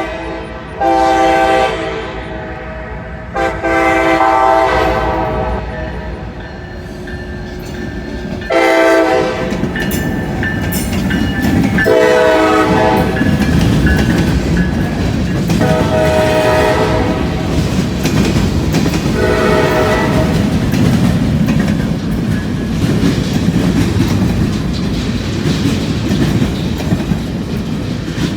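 Diesel freight locomotive sounding its air horn in a series of blasts, two long ones first and then shorter, weaker ones. From about nine seconds in, the engine rumbles and the wheels clack over the rails as the local freight train passes.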